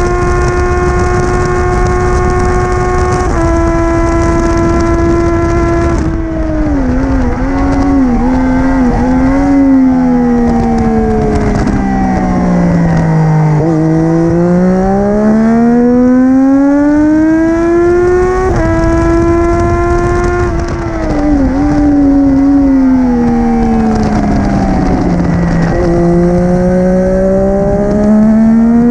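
Triumph Daytona 675R's inline three-cylinder engine through an Arrow titanium full-system race exhaust, ridden hard on track. It holds high revs with a quick gearshift dip, then the pitch falls in steps through downshifts with throttle blips under braking, sweeps low, and climbs again under acceleration. The same braking and acceleration pattern repeats near the end.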